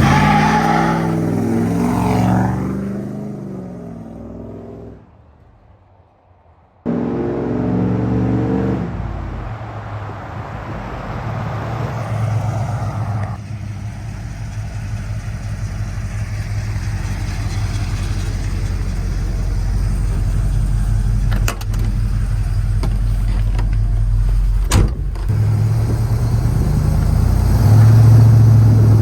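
1986 Ford F250's 460 V8 running through its exhaust: a loud engine note that falls and dies away over the first few seconds, then after a short gap the engine comes in suddenly, drops in pitch and settles into a steady low drone as the truck drives. Two brief clicks come late on.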